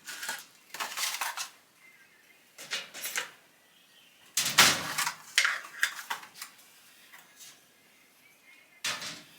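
Objects being handled, making short bursts of clattering and scraping, several times over, loudest a little before halfway.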